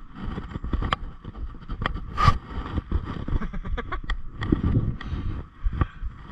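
Mountain bike ridden over a rough dirt trail: an uneven rumble of tyres and movement with frequent rattling clicks and knocks from the bike, and one louder sharp knock about two seconds in.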